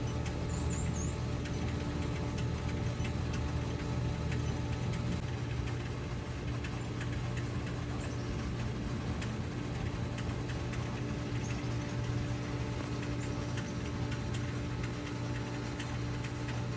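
Steady machine hum with a low drone and a few even tones, unchanging throughout, with faint ticking over it.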